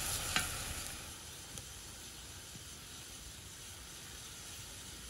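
Lamb testicles sizzling in sauce in a wide pan over a wood fire, with one knock of the stirring ladle against the pan near the start. The sizzling settles to a quieter, even hiss after about a second.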